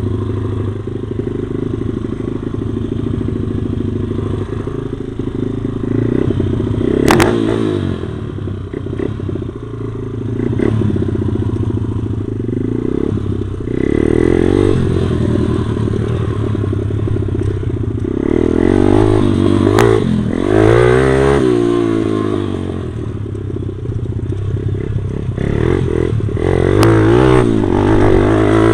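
Stomp pit bike's small single-cylinder four-stroke engine being ridden, revving up and falling back again and again, heard close up from the rider's body, with rattling and scraping. A sharp knock comes about seven seconds in.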